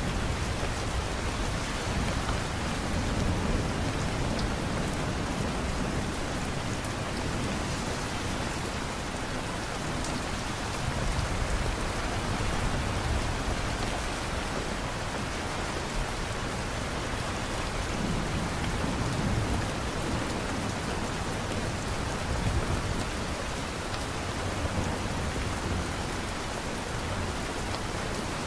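Steady rain falling and pattering on surfaces, an even hiss of drops. A low rumble swells and fades underneath now and then.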